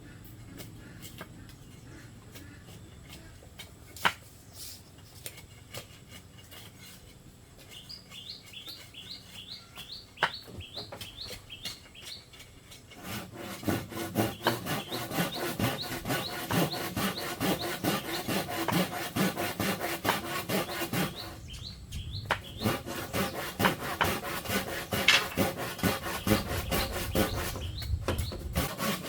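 Hand saw cutting through bamboo: a few light strokes starting about eight seconds in, then steady, rapid back-and-forth sawing from about thirteen seconds in, with a short pause near twenty-one seconds. Earlier there are a couple of sharp knocks.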